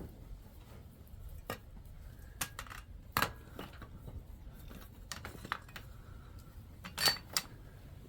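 Scattered light metal taps and clinks at an irregular pace, some ringing briefly, from small tools and the silver ring being worked and handled. The loudest clinks come about three seconds in and near the end.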